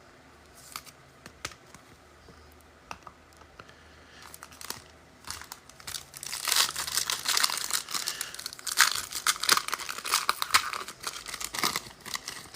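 A few light clicks of cards being handled, then, about six seconds in, a trading-card pack wrapper crinkling and tearing open for several seconds.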